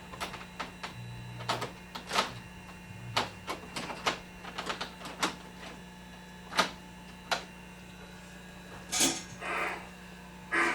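Sharp, irregular clicks and light knocks from a running model railroad layout, over a steady low hum.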